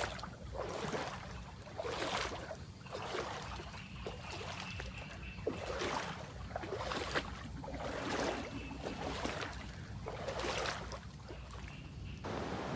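Water swishing in a regular rhythm, about once every second or so, over a steady low rumble.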